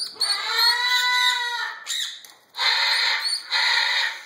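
Young Meyer's parrot calling: one long, steady-pitched call lasting over a second, followed by two short, harsh, raspy squawks.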